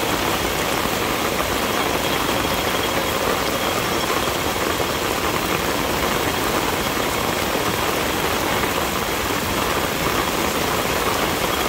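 Torrential black-rainstorm downpour falling on the street and pavement: a dense, even hiss with no letup.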